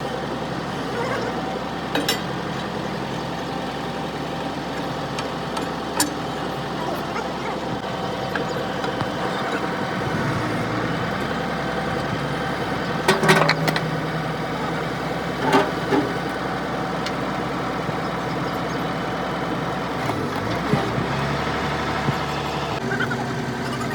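A heavy engine running steadily, with a few short sharp knocks of metal work over it.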